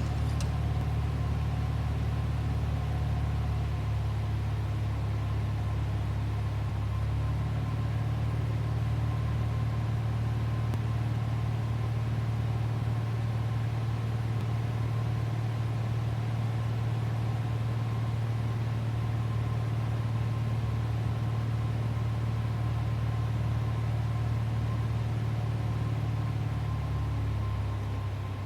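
Cessna 172G's Continental O-300 six-cylinder engine and propeller, a steady drone in level flight. The pitch shifts slightly about seven seconds in, and the sound drops a little near the end.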